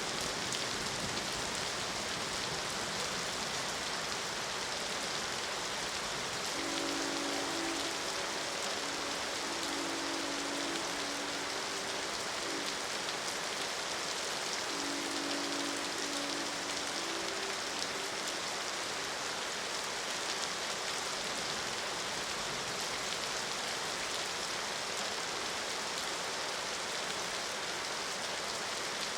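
Steady rain falling, with a train horn sounding a held chord of several notes in two spells: a longer one from about a quarter of the way in, and a shorter one around halfway through.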